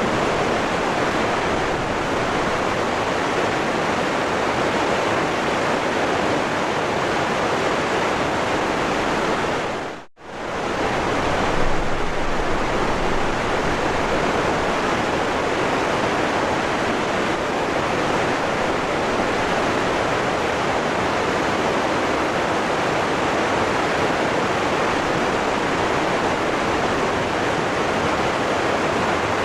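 Waterfall rushing in a steady roar of falling water. About a third of the way through it dips sharply almost to silence for a moment, then comes straight back.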